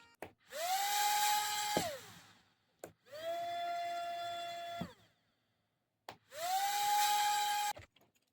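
Small 3.7 V DC motor with a propeller switched on three times in short runs of about a second and a half: each time a click, then a whine that quickly rises to a steady pitch, then cuts out.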